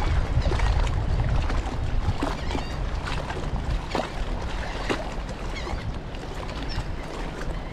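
Wind buffeting the microphone, a steady low rumble, with scattered sharp clicks and a few brief high chirps.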